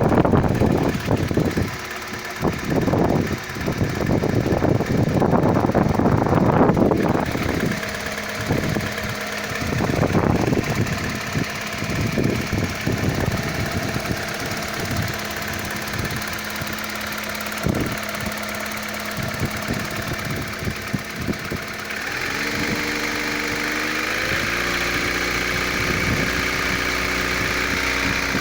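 Opel C16SE 1.6-litre petrol engine running with irregular knocking from the cylinder head, a knock whose cause the owner cannot identify. About 22 seconds in, the engine note steps up in pitch twice and then holds steady.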